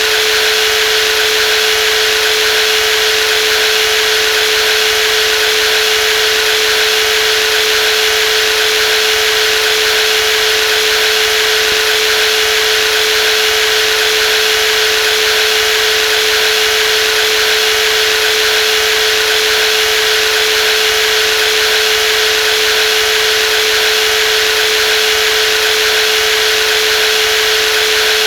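Brushless jigsaw running continuously at a constant speed: an unchanging, loud motor-and-blade noise with one strong steady hum-like tone beneath a bright hiss.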